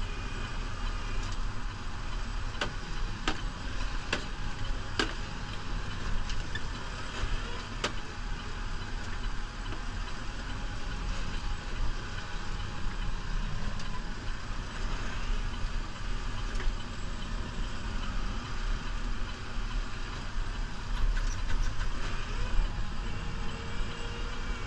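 New Holland Powerstar 75 tractor's diesel engine running steadily, with a few sharp clicks or knocks in the first several seconds.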